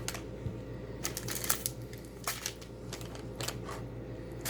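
Small items being handled and rummaged through on a tabletop: a dozen or so irregular light clicks, taps and rustles, as a slime kit's contents are searched for its spoon.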